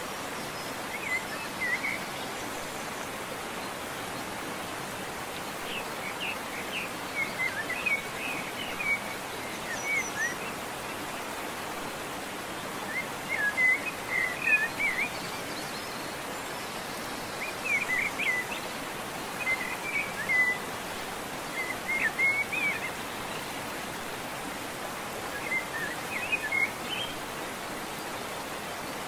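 Small birds chirping in scattered clusters of short chirps every few seconds over a steady outdoor hiss.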